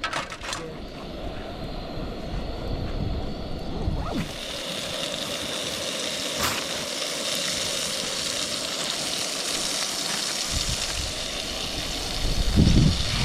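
Chicken frying in a hot pan: a steady sizzle that starts about four seconds in. Near the end there is a louder low rumble.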